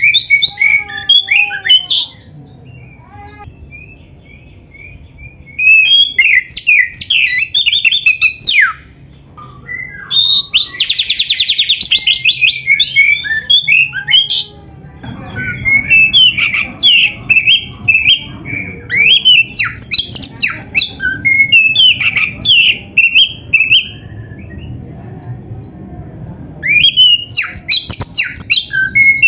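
Oriental magpie-robin (kacer) singing a loud, varied song of sharp whistles, chirps and chatter in bursts, including rapid even trills, with a couple of short pauses.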